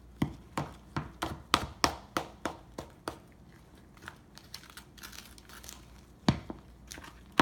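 Crinkling and crunching kitchen handling, with quick sharp taps about three a second for the first few seconds, then scattered ones and a single louder knock near the end.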